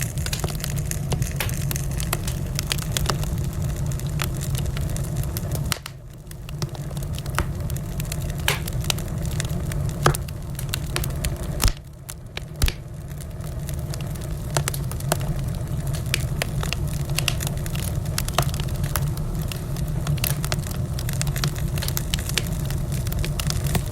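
Wood fire crackling in a fireplace: many sharp pops and snaps over a steady low rumble of burning. The sound drops away briefly twice, about six and twelve seconds in.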